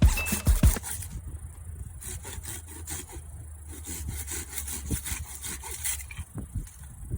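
Hand saw cutting firewood in repeated rasping strokes, with short pauses. It follows the tail of background music, which ends within the first second.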